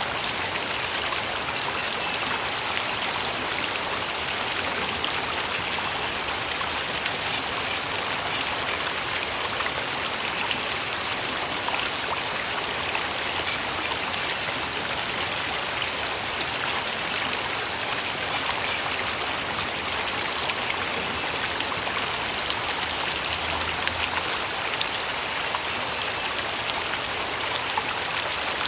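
Stream water flowing and splashing, a steady, even rush of water.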